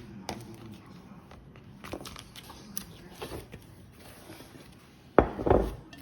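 Scattered light clicks and knocks of things being handled, with a loud double thump a little after five seconds in.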